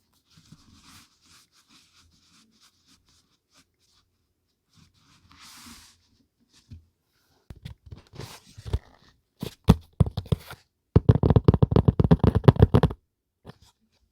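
Paper and packaging handled close to the microphone: soft rustling at first, then louder crackling from about halfway through, densest for about two seconds near the end.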